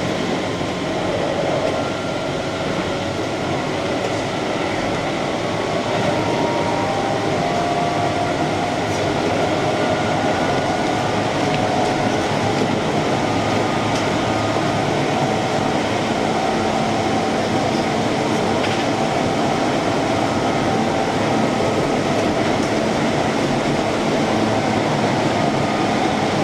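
Keihan electric train running at speed, heard from inside the front car: a steady rumble of wheels on rail, with faint high tones that drift slowly in pitch.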